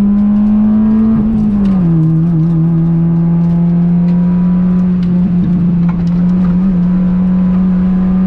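Honda Fit's 1.5-litre four-cylinder engine running at high revs under load on track, holding a steady note. About one and a half seconds in, the pitch drops quickly to a lower note and then holds steady again.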